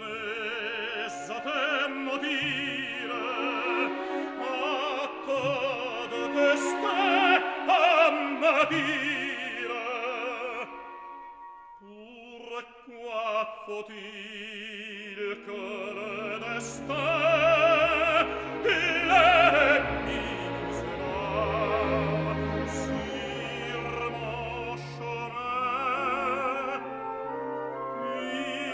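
An opera aria: a trained voice singing with wide vibrato over instrumental accompaniment. The voice pauses briefly about a third of the way through, and deeper sustained notes come in beneath it soon after.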